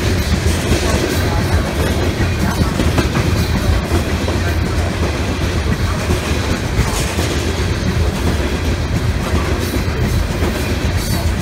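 Freight train of open-top coal hopper cars passing close by: steady loud noise of steel wheels running on the rails, with faint irregular clicks.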